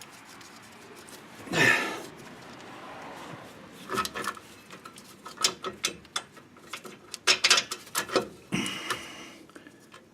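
Metal clinks and clanks of tools and parts being handled, with a louder burst of noise about two seconds in and another near the end.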